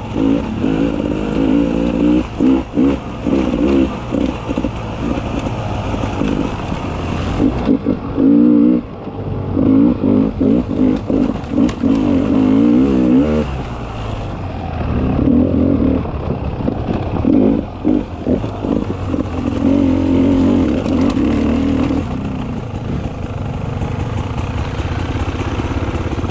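Beta 300 RR two-stroke enduro motorcycle engine being ridden, revving up and dropping back over and over as the throttle is worked on and off, with frequent knocks and rattles from the bike.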